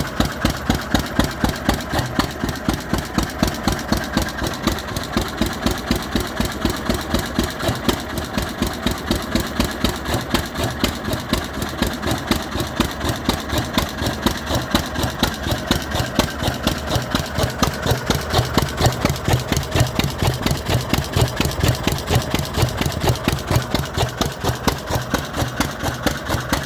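Vintage 3 hp Anderson single-cylinder stationary engine running steadily, with an even, regular exhaust beat and no pauses.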